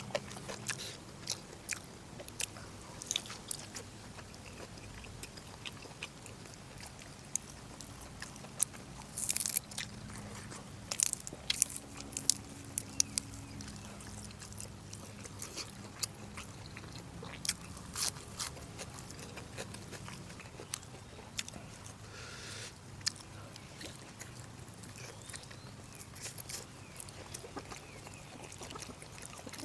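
A person chewing and biting food close to the microphone: irregular sharp crunchy bites and mouth clicks, a few louder clusters about a third of the way in and again past the middle.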